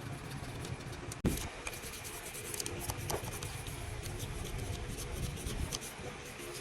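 Scraping and rubbing of hand work on a surface, with many small scratchy ticks and a sharp click about a second in.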